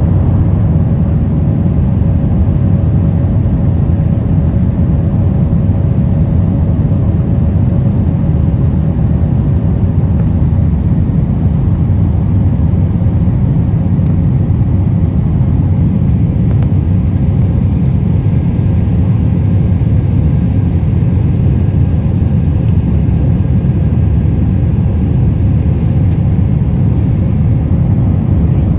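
Jet airliner cabin noise: the engines running with a steady, deep rumble, and a faint hum that fades out about twelve seconds in.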